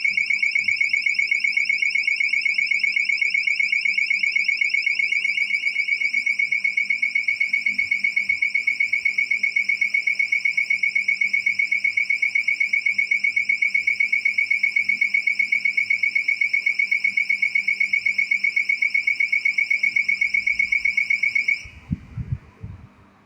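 Motion-triggered alarm tone generator sounding a loud, high-pitched, rapidly pulsing beep that cuts off suddenly near the end, followed by a few low thumps.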